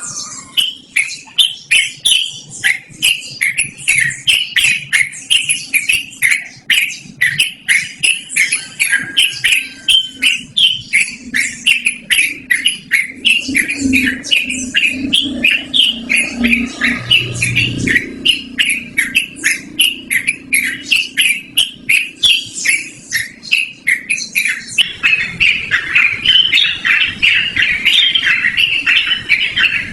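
Yellow-vented bulbul (trucukan) singing without a break: a fast run of short, repeated chirping notes, about two to three a second. About 25 seconds in, the song turns into a denser, unbroken warble.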